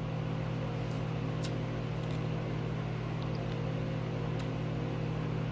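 A steady low electrical or motor hum made of several fixed tones, with two faint sharp clicks, one about a second and a half in and one about four and a half seconds in.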